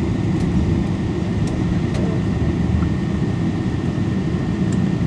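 Cabin noise inside a Boeing 777-224 on the ground before takeoff: a steady low rumble of the engines and air systems with a thin, steady whine above it.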